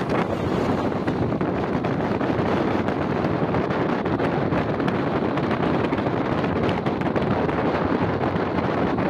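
Steady rush of wind buffeting the microphone at the open window of a moving express passenger train, over the running noise of the train on the track.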